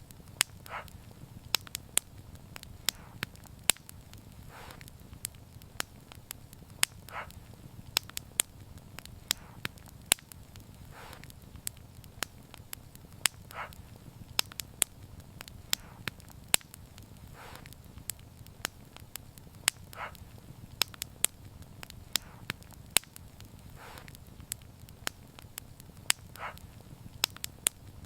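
Wood fire crackling: sharp pops and snaps several times a second over a low, steady rumble of burning, with a softer short hiss every few seconds.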